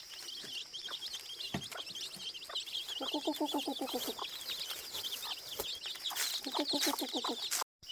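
Hen clucking in two quick runs of pulsed calls, one about three seconds in and one near the end, over steady high-pitched chirping.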